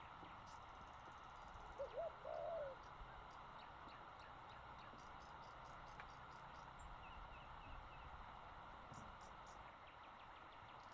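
Faint, steady outdoor hiss with a bird calling briefly about two seconds in, a few quick arching notes. Light high-pitched insect ticking comes and goes.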